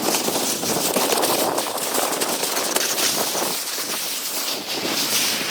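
Wind buffeting the microphone: a steady rushing noise that stays loud throughout.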